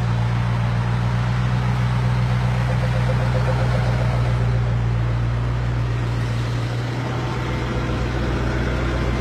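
Koenigsegg Agera R's twin-turbo V8 idling steadily, a constant low hum that holds the same pitch throughout.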